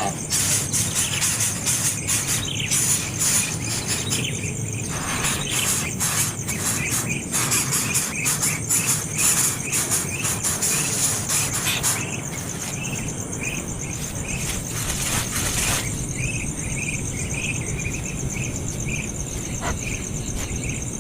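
A baby bird chirping over and over in short, high calls, with a steady high-pitched insect drone behind it.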